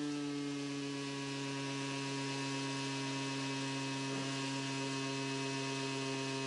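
Motorcycle engine of a crashed hillclimb bike lying on its side, left running on its own with no load at unchanging revs: one steady, unwavering engine tone.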